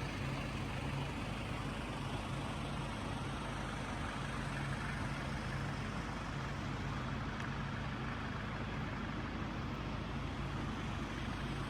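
Steady engine hum and road noise from a moving vehicle, even throughout with no change.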